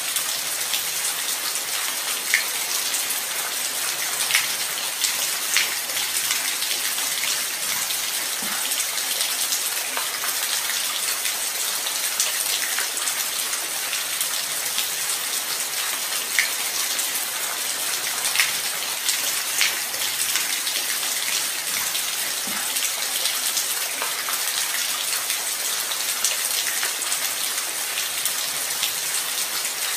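Light rain falling steadily: an even hiss with scattered louder drop ticks now and then.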